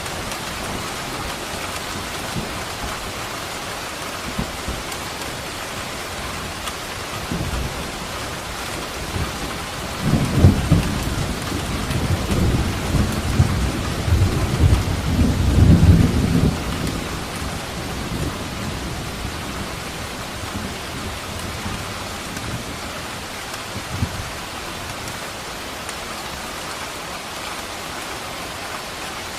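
Steady heavy rain, with a roll of thunder rumbling low and loud from about ten seconds in for some seven seconds, then fading back under the rain.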